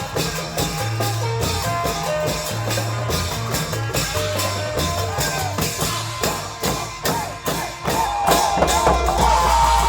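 Isan klong yao long-drum band music: a steady drum beat over a repeating bass line, with sliding melody notes coming in over the last few seconds.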